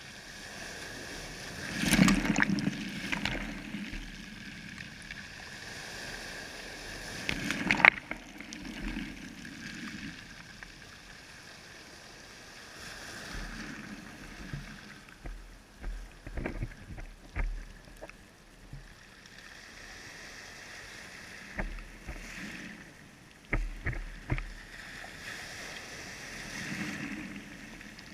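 Water sloshing and splashing in slow swells every few seconds, with a few sharp knocks, like a small boat or paddle on the water.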